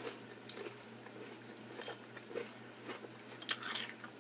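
Close-up chewing: soft crunches and wet mouth clicks of food being bitten and chewed, a little louder about three and a half seconds in.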